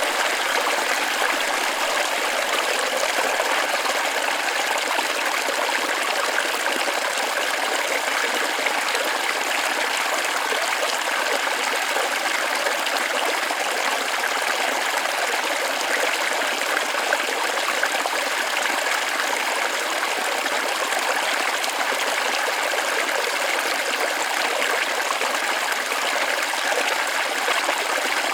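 Small forest waterfall running steadily, an even splashing rush of water with little deep rumble.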